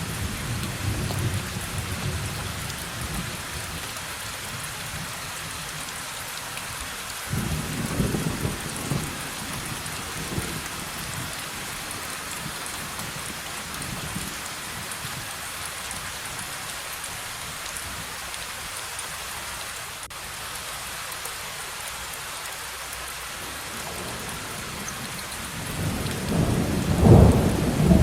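Steady heavy rain with rolling thunder: a rumble at the start, another about a quarter of the way in, and a louder, longer rumble near the end.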